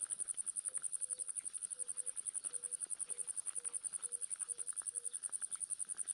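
An insect trilling: a steady, high-pitched rapid pulsing with no break. Under it, a series of short low notes repeats about twice a second and stops about five seconds in.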